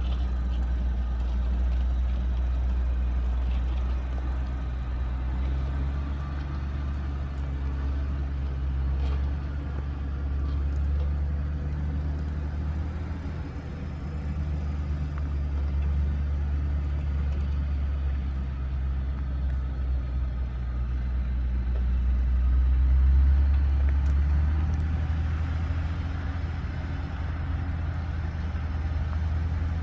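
Engine of an old GMC logging truck running under load. Its drone swells and eases as the revs change and is loudest a little past two-thirds of the way through.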